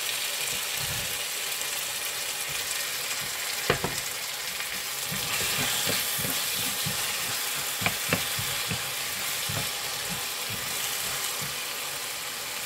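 Diced potato sizzling as it fries in hot oil with onion-tomato masala in a frying pan, stirred with a wooden spatula. A steady hiss, with a few sharp knocks: one about four seconds in and two close together about eight seconds in.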